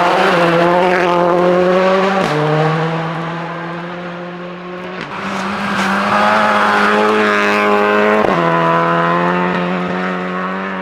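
Rally car driven hard on a stage, its engine note stepping at gear changes about two, five and eight seconds in, then fading away near the end.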